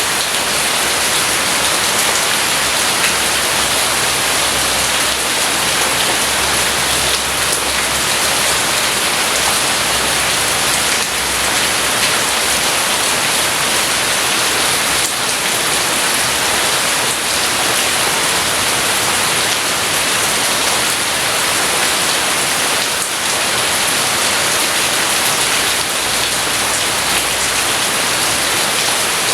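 Steady rain falling, an even unbroken hiss with no thunder standing out.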